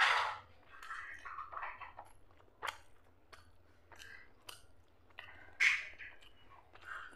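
Close-miked chewing of soft mutton fat curry and rice, with wet mouth noises and sharp little clicks. There is a louder burst right at the start and another about five and a half seconds in.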